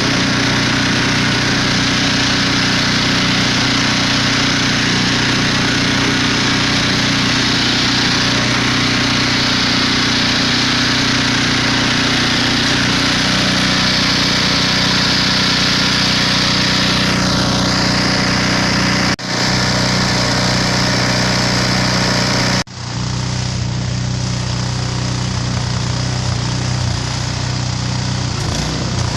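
Snowblower's small single-cylinder engine running steadily at a constant speed with an even hum. It cuts out for an instant twice about two-thirds of the way through, then carries on a little quieter.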